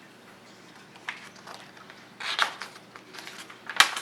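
Paper rustles and light clicks as a picture book's pages are handled and turned, with one sharper tap near the end.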